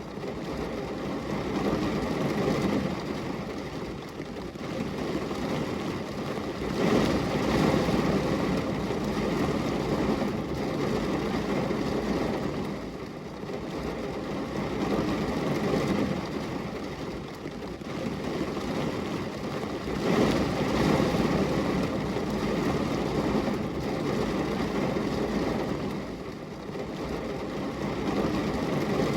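Steady heavy rain on a glass window: a dense, even wash of noise with a low rumble, swelling louder and easing off every several seconds.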